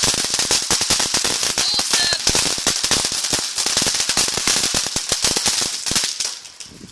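Ground firework crackling: a fast, dense string of small sharp pops that dies away about six seconds in.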